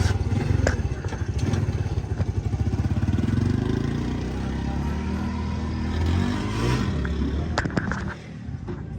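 Daihatsu Mira car engine running, revved up and down a couple of times, dropping away a little after eight seconds.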